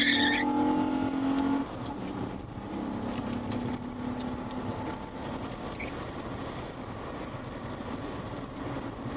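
A motor vehicle's engine humming steadily, loudest for the first second and a half and then fainter, with a brief high squeal right at the start, over a continuous rushing noise.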